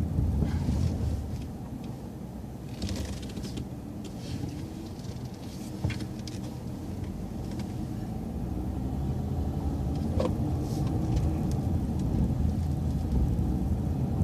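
Transit bus driving slowly, heard from inside: a steady low engine and road rumble with a few brief rattles and clicks, growing louder over the second half.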